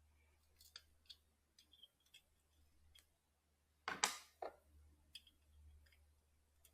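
Faint, scattered clicks and ticks of small parts and tools being handled while a weed eater's electric-start unit is screwed back together, with a louder pair of knocks about four seconds in.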